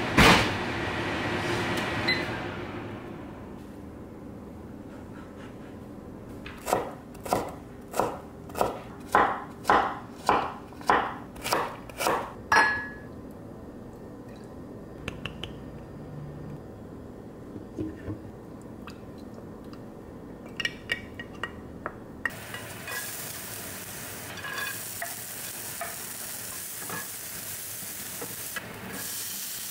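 A loud clatter at the start, then a run of about ten evenly spaced knocks a quarter of the way in. From about three-quarters of the way through, diced carrots sizzle in a frying pan while a wooden spatula stirs them.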